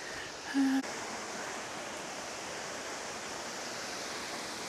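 Steady rush of a small hillside waterfall, with a brief low hum-like tone about half a second in.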